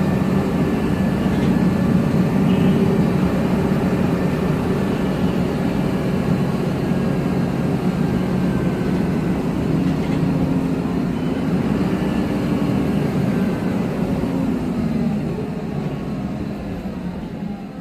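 MAN Lion's Classic city bus's MAN E2876 compressed-natural-gas straight-six engine running under way with its ZF Ecomat six-speed automatic gearbox, a steady low drone. The engine note falls and grows quieter near the end.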